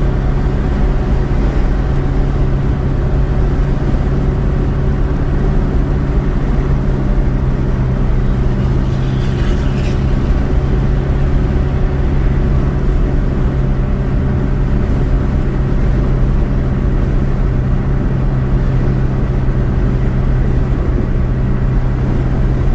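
A car driving, its engine and road noise making a steady low drone, with a short brighter whoosh about ten seconds in.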